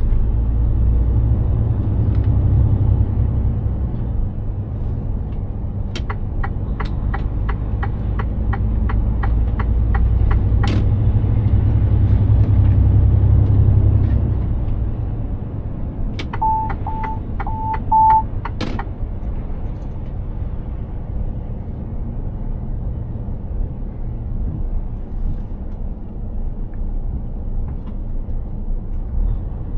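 Mercedes-Benz Actros 2763 truck engine and road drone heard inside the cab, heavier for about the first half and then easing off. About six seconds in, the turn signal ticks evenly, about three ticks a second, for some four seconds. Later a second short run of ticks comes with four short beeps.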